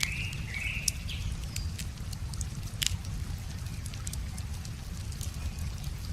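Wood fire crackling, with irregular sharp pops and ticks, over a steady low rumble of flowing river water. A bird gives a short call in the first second.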